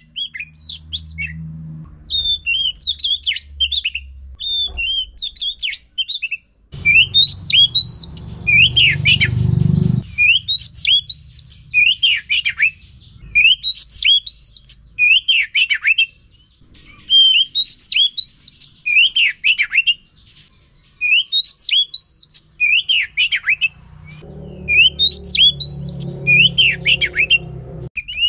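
Oriental magpie-robin singing: loud, varied whistled phrases that sweep up and down, one after another with short pauses, used as lure song to set off a silent magpie-robin.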